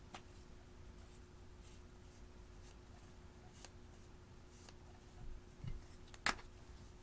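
Quiet slime handling: faint scattered clicks and soft crackles, two soft thumps about five seconds in and one sharper click just after six seconds.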